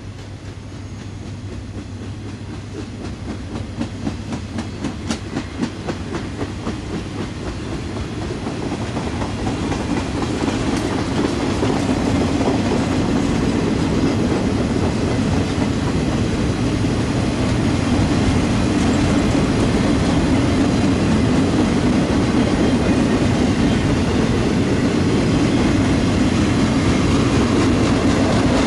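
Freight train rolling by, its wheels clacking rhythmically over the rail joints. It grows louder over the first ten seconds or so, then settles into a steady loud rumble.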